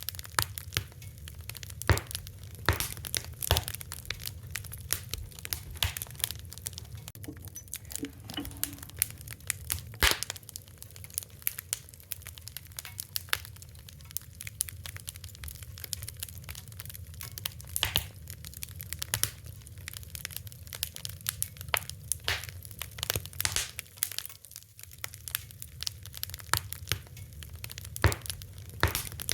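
Fire crackling: irregular sharp pops and snaps, some much louder than others, over a steady low rumble.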